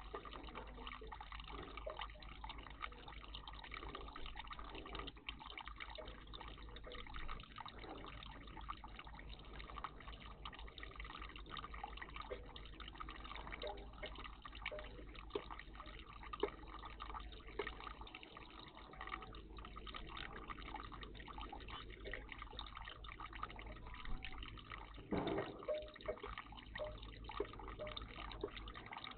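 Faint water trickling and dripping at a garden bird bath, with one brief louder sound near the end.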